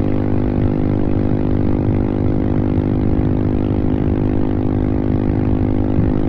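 Royal Enfield Himalayan 450's single-cylinder engine running through a full-system Devil Pro Evolution exhaust, held at steady high revs near its top speed of about 140 km/h, the pitch staying level throughout.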